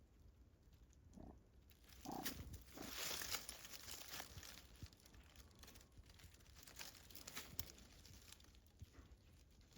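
Faint rustling and crackling, as of small animals moving over dry litter. A louder stretch of scratchy noise comes about two to four seconds in, with two short soft sounds just before it.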